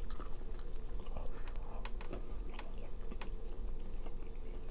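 A person chewing food with the mouth, with small irregular wet clicks.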